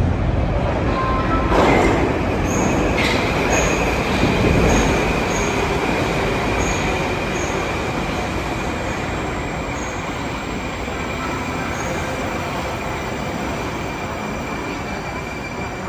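Metro train rumbling along the rails. A knock comes about a second and a half in, then a steady high squeal of the wheels from about three seconds in, and the noise slowly fades.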